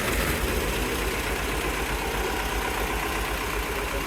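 Old Farmall tractor engine idling steadily through a custom low exhaust, routed under the hood and out at the rear to make it quieter; a quiet tractor.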